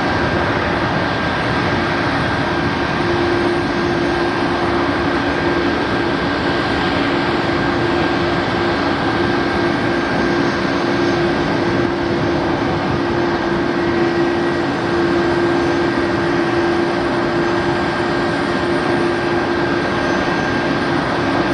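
Jet aircraft engines running steadily: an even rush of noise with a few steady tones over it, with no rise or fall.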